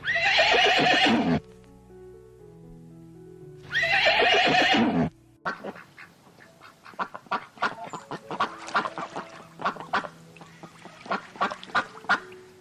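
A horse whinnying twice, each call about a second and a half long and falling in pitch at the end, followed by a long irregular run of sharp clicks and knocks. Background music plays underneath.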